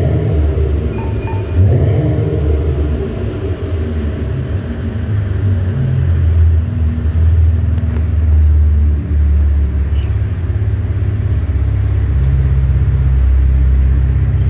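2015 Chevy Impala's exhaust, with the suitcase resonators deleted and two Super 40 mufflers fitted, running with a deep tone. The engine speed steps up and down, and about twelve seconds in the exhaust grows louder and holds steady.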